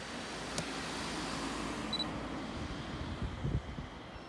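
Electric commuter train approaching on the line: a steady rumble of running noise with wind on the microphone and a few low thumps near the end.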